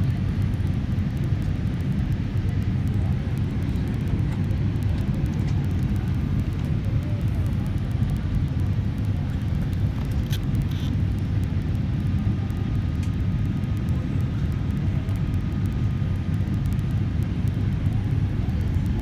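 Steady low rumble of an airliner's engines and rushing air, heard from inside the passenger cabin during the landing approach, with a couple of faint clicks about halfway through.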